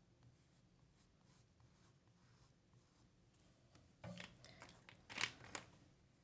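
Near silence, then about four seconds in a few short, faint scratchy strokes of an oil pastel on paper.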